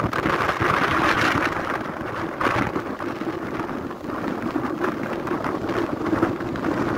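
Storm wind gusting and buffeting the microphone, as a loud rushing noise that swells strongly about a second in and then keeps rising and falling.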